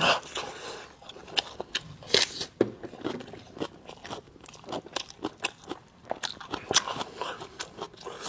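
Close-miked eating: biting and chewing meat, with many irregular crunchy clicks and wet mouth sounds.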